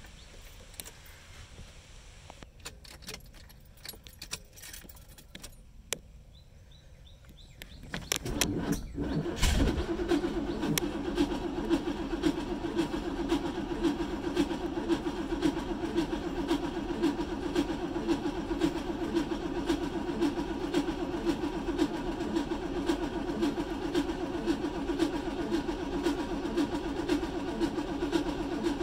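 Car being started: several seconds of quiet with key and ignition clicks, then about eight seconds in the starter cranks, the engine catches with a low thump and settles into a steady idle with an even pulse.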